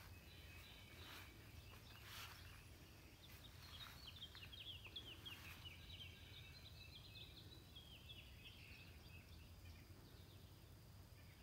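Faint birdsong over quiet outdoor background: a songbird gives a quick run of short chirps starting about three seconds in and lasting a few seconds.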